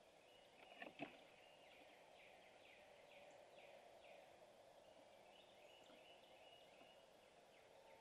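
Faint woodland sound: a bird calling a run of quick falling notes, with two soft knocks about a second in.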